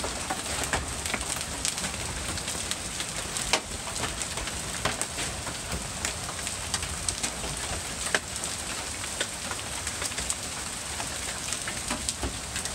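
Large hailstones pelting down: a steady dense hiss of the storm, with many sharp, irregular cracks of hard stones striking nearby surfaces.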